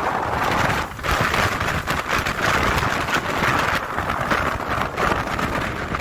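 Storm wind blasting and buffeting the microphone, a loud, rough, gusting rush of noise with crackling bursts.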